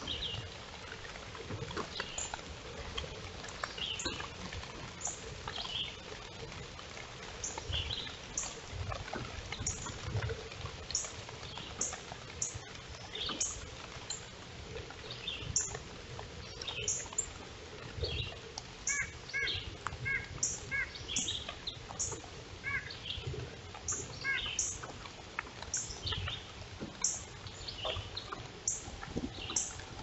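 Wild birds calling in woodland: short, high chirps repeated about once a second, joined past the middle by another bird's lower notes in quick pairs, over a low rumble.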